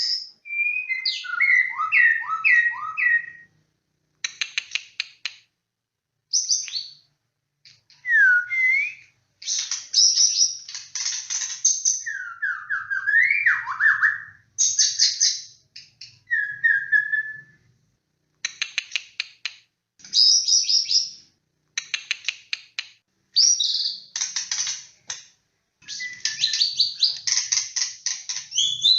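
White-rumped shama in full song: a long run of varied phrases that mix clear whistled notes and slurs with fast, high, rattling trills, with short breaks between phrases.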